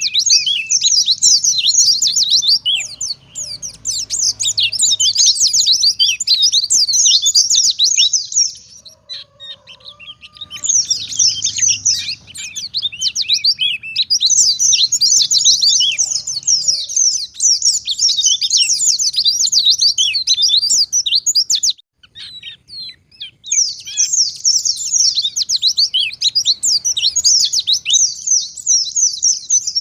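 White-eye (pleci) singing in long runs of rapid, high twittering notes, with two short breaks, about a third and three quarters of the way through.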